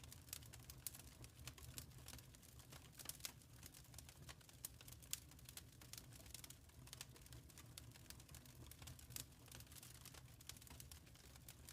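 Faint fireplace fire crackling: irregular small sharp pops and snaps, several a second, over a soft low rumble.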